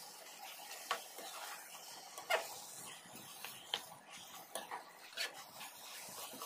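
Kitchen clicks and taps, about eight at irregular intervals, over a steady faint hiss while cooking.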